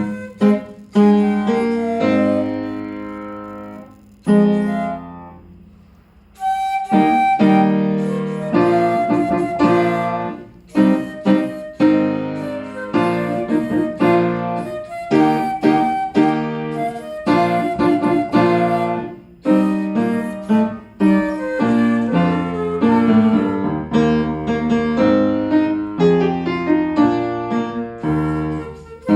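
Flute and piano playing a duet, the piano's notes ringing and decaying under held flute tones. About four seconds in the music thins and fades almost away, then picks up again about two seconds later.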